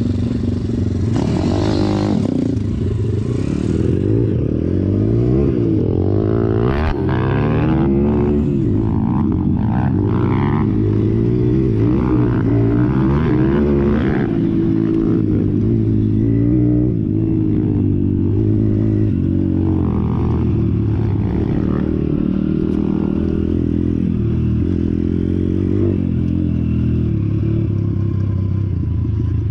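Pit bike engine running, its revs rising and falling again and again, with a steadier stretch in the second half.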